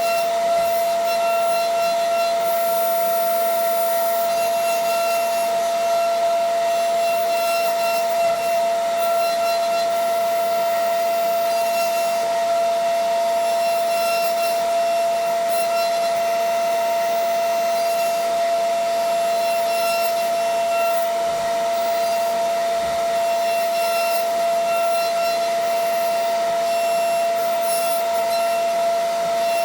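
DN Solutions SVM 4100 CNC vertical mill running, with a steady high whine that holds one pitch throughout and does not change.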